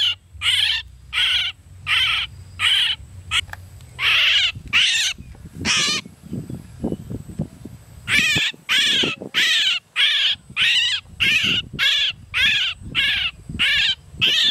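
A bird calling over and over with short, harsh calls about twice a second, pausing for about two seconds partway through, where low rumbling and knocking noises are heard.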